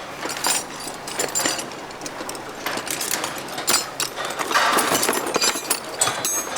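Hand tools clinking and knocking against the metal parts of a mini tractor being dismantled: irregular clicks and clanks, with a short scraping patch about four and a half seconds in.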